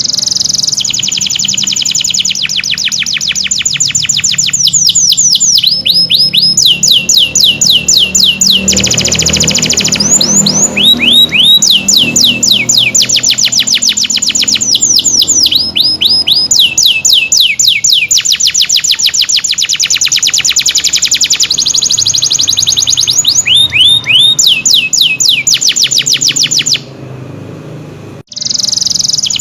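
Domestic canary singing loudly in long, fast trills and rolls, with runs of quickly repeated falling notes; the song breaks off briefly near the end and starts again.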